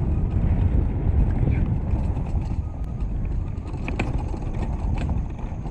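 Electric KX80 dirt bike riding along a dirt trail: a steady low rumble of wind on the helmet microphone and tyres on the ground, the motor itself nearly silent. A couple of sharp clicks come about four and five seconds in.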